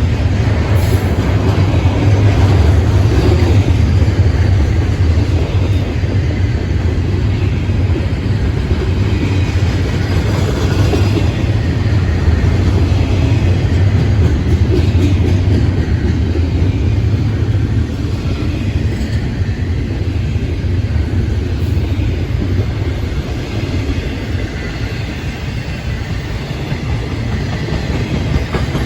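Freight train cars rolling past on the Florida East Coast Railway line, a loud steady rumble of wheels on rail that eases slightly near the end.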